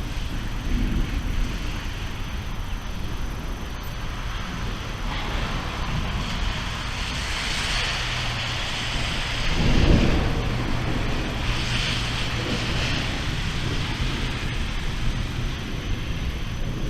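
Thunder rumbling through a rainstorm, with steady rain hiss that swells in the middle and a louder roll of thunder about ten seconds in.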